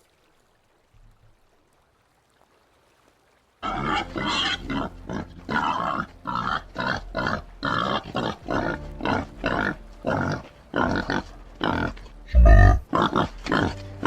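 White-lipped peccary grunting in a rapid, harsh series of calls, several a second, starting about three and a half seconds in. A loud low thump comes near the end.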